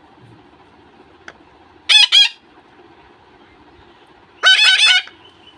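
Month-old parakeet chicks giving harsh, rasping calls while feeding: a quick pair about two seconds in, then a fast run of about four calls near the end.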